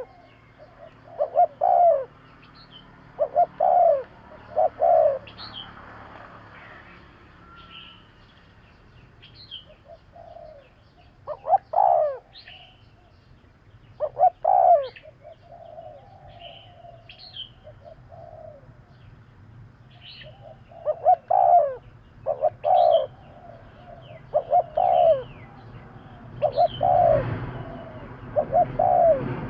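Spotted dove cooing: short phrases of two or three low coos, repeated every few seconds. Other small birds give brief high chirps in between.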